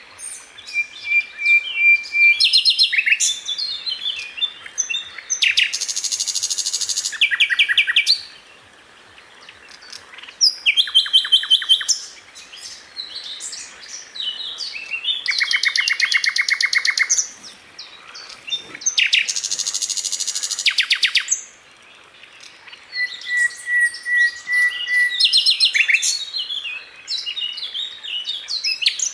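Sikatan londo flycatcher singing: repeated bursts of very fast rattling trills, each a second or two long, mixed with varied quick chirps and, twice, a short level whistle.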